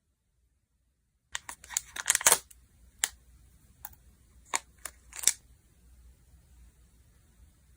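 Slime being squeezed and poked by hand, giving a quick cluster of crackling clicks and pops, then several single sharp pops spaced apart. It opens with a second of dead silence.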